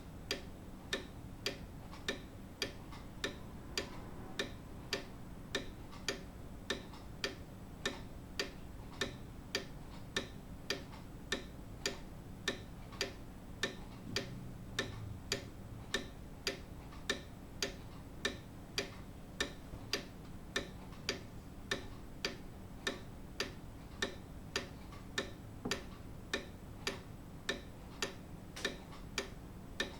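Grandfather clock ticking steadily, an even tick-tock of about three beats every two seconds.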